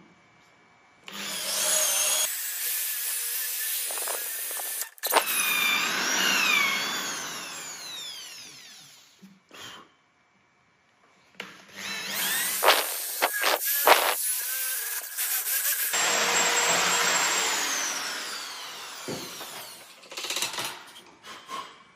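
Power tool running in several loud bursts that start and stop abruptly, with high whines that sweep downward in pitch.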